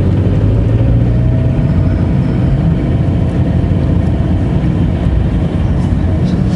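Car engine and road noise heard from inside the cabin of a manual-transmission car moving off in second gear: a steady low drone.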